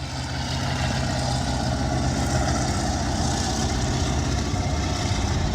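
A vehicle engine running steadily at an even pitch, with a steady rush of noise over it.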